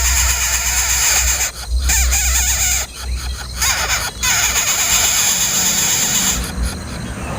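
Hungry nestlings begging for food with shrill, dense cheeping, broken by a few brief pauses and easing off near the end.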